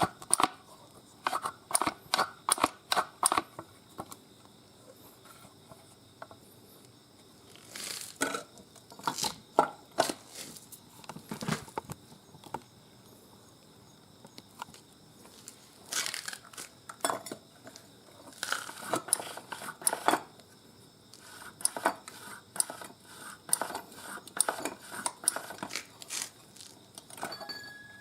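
Irregular metallic clinks, knocks and clatter, with some rustling, from handling tools and parts.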